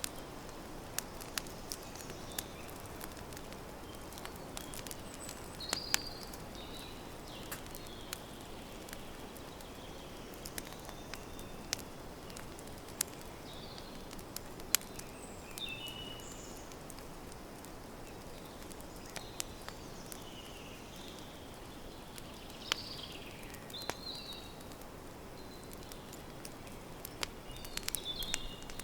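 Campfire crackling, with scattered sharp pops over a steady low hiss of burning wood. Small birds chirp on and off in the forest around it.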